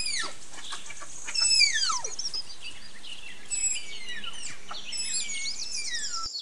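Tapir calling: a run of shrill whistling squeals, each sliding down in pitch, one of them falling long and low about a second and a half in.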